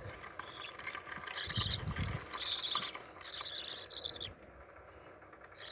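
Young budgerigar chicks giving short, raspy, buzzing chatter calls in several bouts, with some low handling rustle; the calls stop a little over four seconds in.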